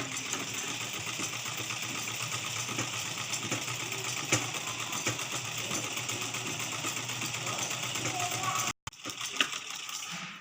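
Sewing machine running steadily, stitching fabric. It cuts off for an instant near the end, then runs on.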